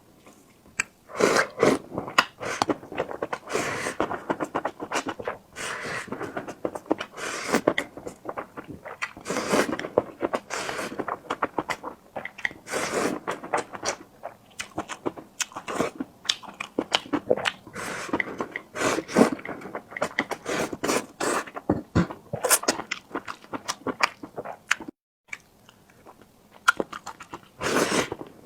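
Close-miked eating sounds: steady, irregular chewing, mouth smacks and crackles, with scraping, broken once near the end by a momentary drop to silence.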